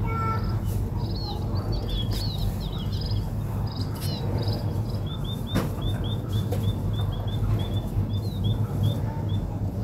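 Small birds chirping, with a fast run of short repeated chirps from about halfway, over a steady low hum. A single sharp click comes about halfway through.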